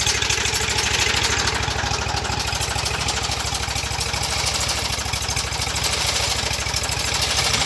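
IMT-533 tractor's diesel engine idling steadily after a cold start, with an even, rapid firing beat.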